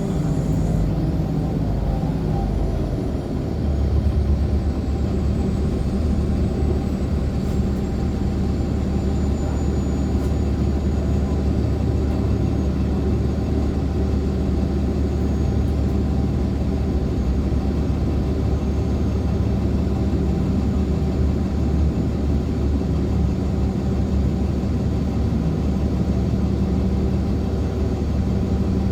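Inside a 2014 Nova Bus LFS articulated hybrid bus: the drive's whine falls in pitch over the first three seconds as the bus slows, then its Cummins ISL9 diesel settles into a steady low idle. A faint high whine slowly dies away over the first ten seconds or so.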